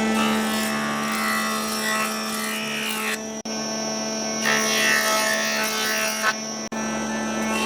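An electric power tool's motor running at a steady pitch, with changing higher noise from the tool working the wood. The sound drops out briefly twice.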